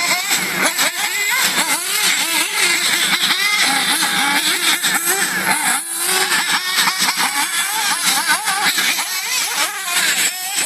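Radio-controlled cars racing, their motors revving up and down in quick, overlapping rises and falls in pitch over a steady hiss.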